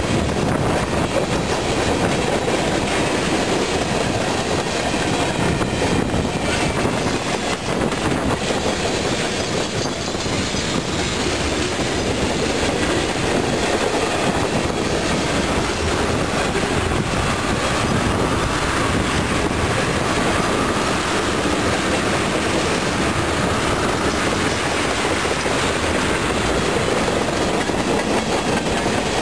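Freight train cars rolling past at steady speed, the wheels clattering rhythmically over the rail joints.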